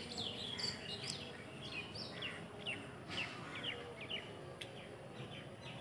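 Small birds chirping: a run of short, quick calls, each falling in pitch, over faint outdoor background noise.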